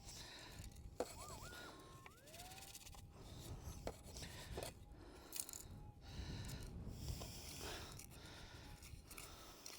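Faint scraping and rubbing of dirt and gravel being shaken around in a plastic scoop, with scattered clicks. About a second in, a Minelab GPX 6000 metal detector gives a short stepped tone followed by a rising one, signalling the target in the scoop.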